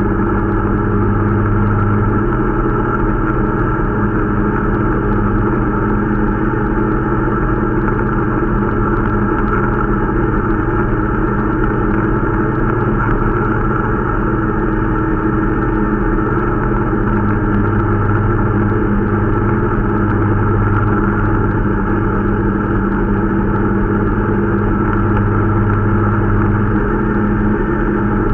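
Irbis Dingo T125 snowmobile's small 125 cc four-stroke engine running steadily under way, held at an even pace, during its break-in ride.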